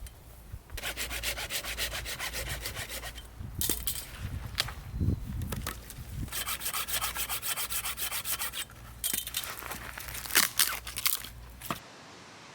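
Fast, rhythmic scraping strokes on wood, like hand sawing or rasping, in several runs separated by short pauses, with a few sharper knocks between them; it stops abruptly near the end.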